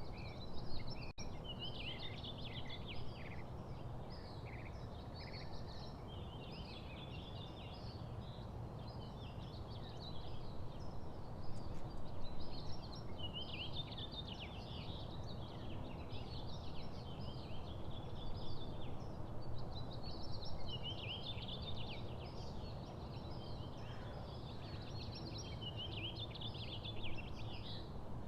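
Small songbirds chirping and twittering, several at once, in quick overlapping runs of short notes, over a steady low background rumble.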